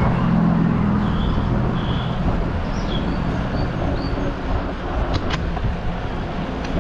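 Road traffic heard from a moving bicycle, with a steady low rumble; a vehicle's engine hum is strongest in the first two seconds, and a couple of sharp clicks come about five seconds in.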